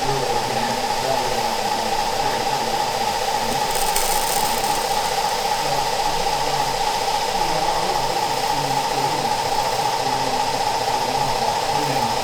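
Steady background hum and hiss of a busy exhibition hall, with a faint murmur underneath.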